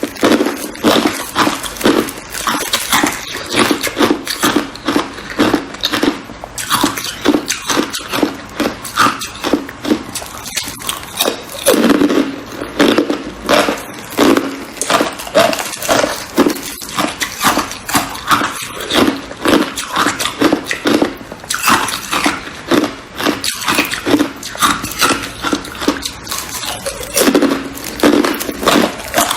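Ice being chewed and crunched in the mouth, a quick cluster of crisp cracks with each bite, coming about once a second.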